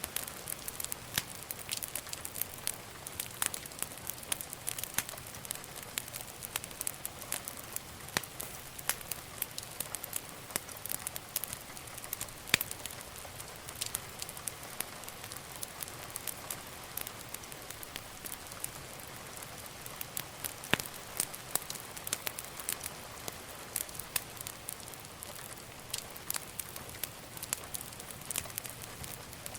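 Wood fire crackling: frequent irregular sharp pops and snaps over a soft steady hiss of burning.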